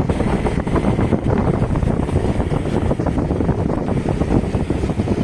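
Steady, loud wind noise buffeting the microphone, a dense rumble that flutters throughout.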